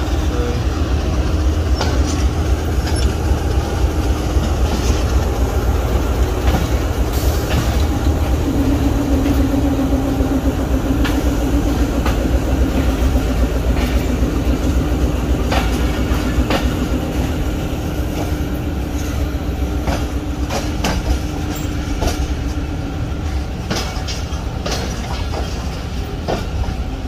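Passenger train rolling slowly through a rail yard, heard from on board: a steady rumble of wheels on the track, with irregular clicks and clacks over rail joints and points. A steady low tone holds through the middle.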